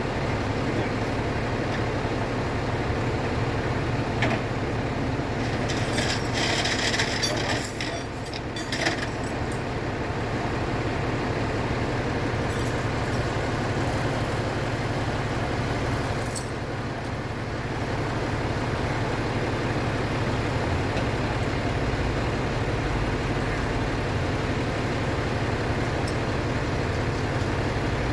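Tow truck's engine running steadily at the scene of a vehicle recovery, with brief metallic clinking and rattling about six to nine seconds in.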